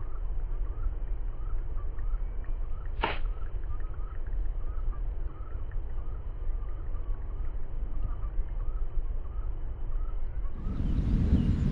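A single sharp strike about three seconds in, typical of a golf club hitting the ball, over a steady low rumble of wind on the microphone. Small bird chirps repeat throughout.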